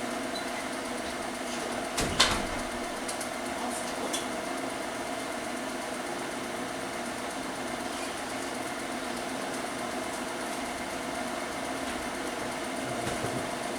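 Steady mechanical whirr, even and unbroken, with one sharp knock about two seconds in and a few light ticks after it.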